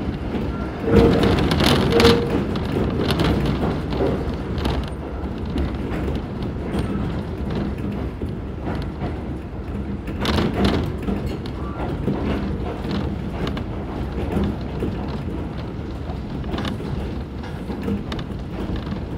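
Electric commuter train on the Kōnan Railway Ōwani Line rolling along, heard from inside the car: a steady running rumble with scattered clicks and knocks from the wheels and carriage, as it nears its next station stop.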